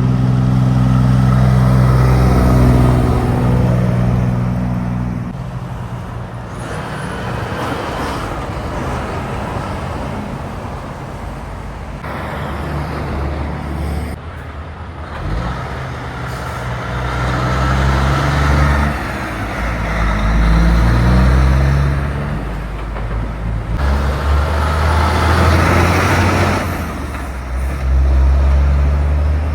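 Heavy diesel trucks passing one after another, their engine notes loud as each goes by and changing pitch in steps, with tyre and road noise between them.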